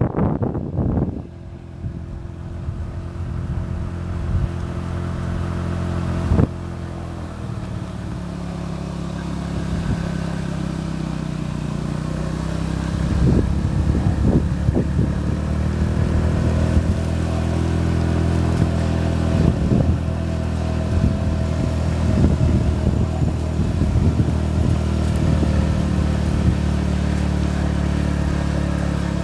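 A motor vehicle's engine running steadily, its pitch shifting slightly now and then, with a few short knocks.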